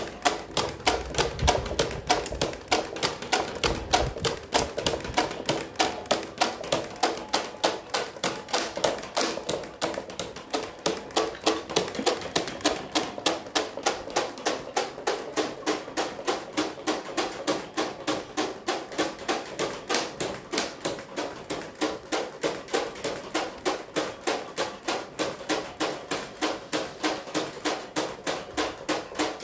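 Electric fan running with a rapid, regular clacking, the spinning blades knocking against something on every turn.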